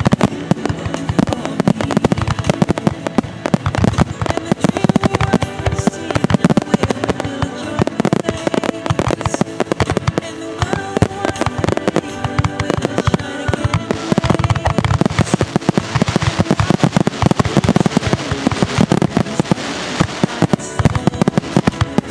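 A rapid barrage of fireworks shells bursting, many reports a second with crackling, over music. The barrage grows denser and more crackly in the last third.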